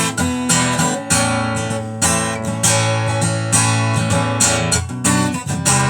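Recorded music: acoustic guitar strumming a steady rhythm, with no singing.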